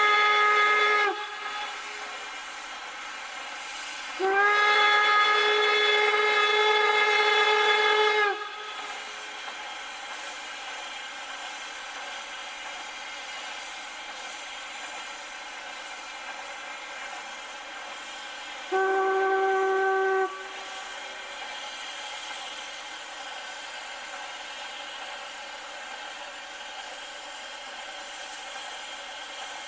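Steam locomotive whistle blowing: a blast ending about a second in, a long blast of about four seconds, then a shorter blast near the end of the second third, with a steady hiss of steam in between.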